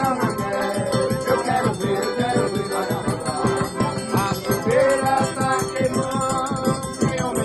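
Forró arrasta-pé music: an accordion plays the tune over a fast, steady shaker rhythm.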